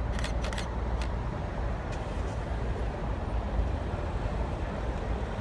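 Blackpool's illuminated Western Train tram running past with a steady low rumble among road traffic, with a few short clicks in the first half second.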